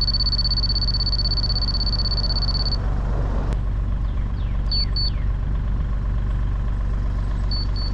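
Construction laser level sounding a steady high tone that cuts off about three seconds in, then two short double beeps a few seconds apart, over a heavy-equipment engine idling. The beeping is abnormal and fast, which the crew suspects means the laser needs to recalibrate.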